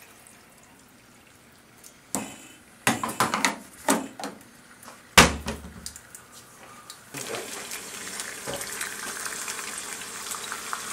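Kitchen sounds: a few knocks and clinks, the loudest about five seconds in, then eggs frying in a pan with a steady sizzle from about seven seconds in.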